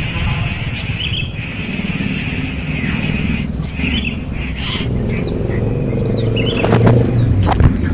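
Short bird chirps scattered over a steady low rumble of traffic, with a motor vehicle's engine hum swelling up about two-thirds of the way in and a few sharp clicks near the end.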